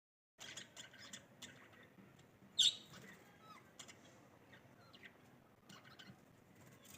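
Birds chirping in short, scattered calls, the loudest a sharp chirp about two and a half seconds in.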